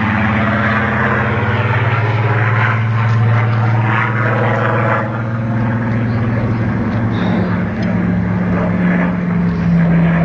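Supermarine Spitfire's V12 piston engine running loud and steady in a low flyby, its note dropping in pitch about seven seconds in as it passes.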